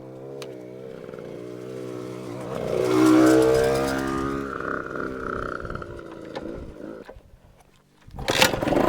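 Dirt bike engine running, revving up to its loudest about three seconds in, then dying away. Near the end there is a short, loud rush of noise.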